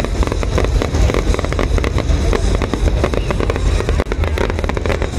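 Aerial fireworks bursting in rapid succession: a dense run of bangs and crackles close together.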